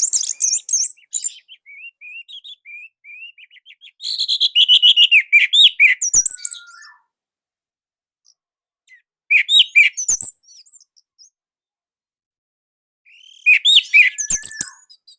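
Orange-headed thrush singing: bursts of rapid, varied high chirps and slurred whistles, split by pauses of about two seconds.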